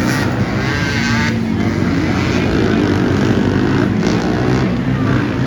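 Racing ATV engines running hard as the quads race past, with one engine's pitch wavering up and down about a second in.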